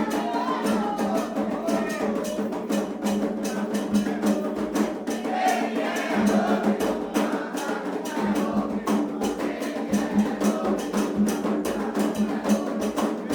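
Candomblé ritual music: drums struck in a fast, even rhythm with a sharp wood-block-like beat, and voices singing a chant over them.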